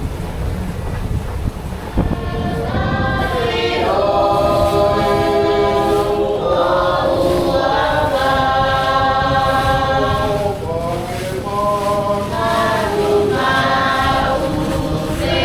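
A choir singing long, held chords in harmony, starting about two seconds in.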